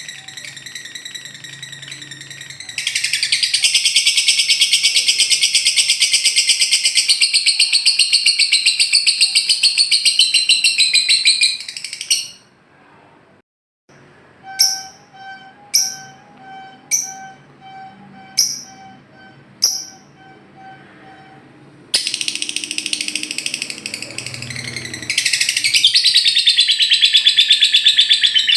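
Lovebird's 'ngekek': a long, very rapid, high-pitched chattering trill, in two long bouts. Between them come a few short sharp notes, about one a second.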